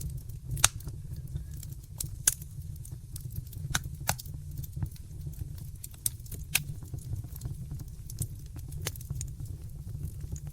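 Wood fire burning in a fireplace: irregular sharp crackles and pops, several a second with a few louder snaps, over a steady low rumble of the flames.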